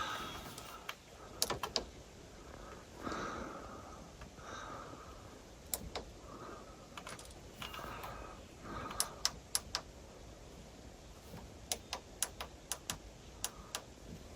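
Scattered light clicks and taps, some in quick runs of two to four, with soft rustling between them.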